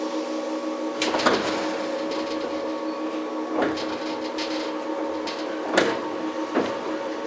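Inside the motor car of a JR 115-series electric train: a steady hum of several tones. About a second in a low rumble starts, and four sharp clanks follow, a couple of seconds apart.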